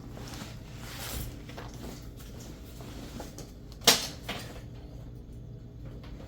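Handling and rustling noises with one loud sharp knock about four seconds in, followed by a smaller one.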